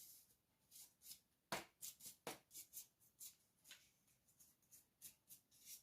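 Faint dusting strokes rubbing over a picture frame, a quick run of short brushing swipes, about two or three a second, with two light knocks about a second and a half and two seconds in.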